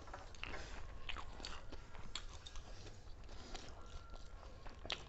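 A person chewing and biting food fast, with faint scattered crunches and small mouth clicks.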